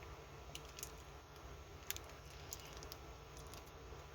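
Quiet room tone with a low hum and a few faint, light ticks scattered through it.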